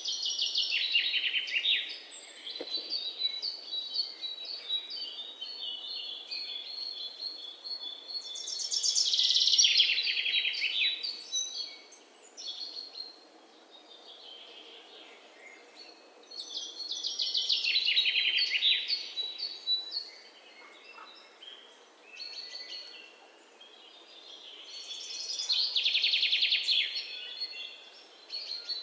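Songbirds singing. One bird repeats a loud song phrase about every eight seconds, a fast trill that falls in pitch, with softer high chirps and whistles from other birds in between.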